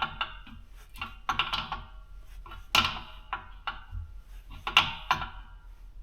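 Metal wrench clinking against the compressor's threaded fittings while they are tightened: a string of sharp, ringing knocks, two or three close together at a time, with pauses between.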